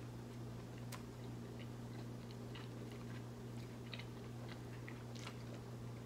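A man chewing a mouthful of chicken sandwich with mouth closed, giving faint, scattered wet clicks and crackles over a steady low hum.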